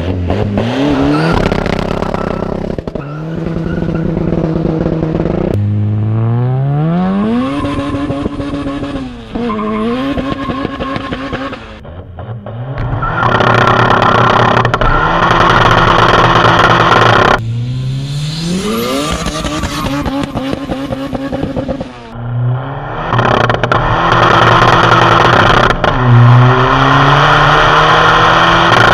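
Diesel SEAT Ibiza's engine under hard acceleration, the pitch climbing in each gear and dropping back at each gear change, several pulls in a row.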